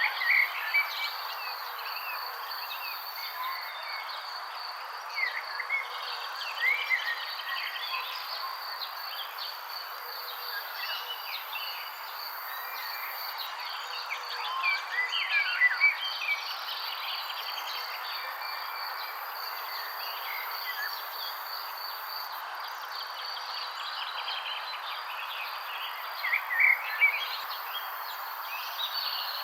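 Songbirds chirping in short, scattered bursts, a few calls at a time, over a continuous high insect trill and a steady chorus of background calls.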